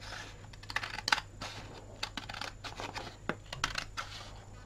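A sheet of paper being handled and cut into thin strips with scissors: irregular rustles, scrapes and snips.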